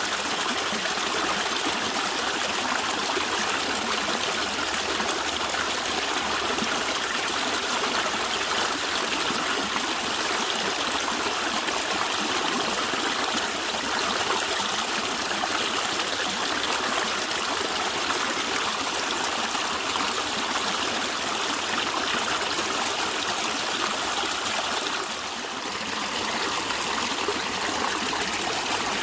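A natural stream flowing and gurgling steadily, a fast, even rush of water, with a brief slight dip in level about 25 seconds in.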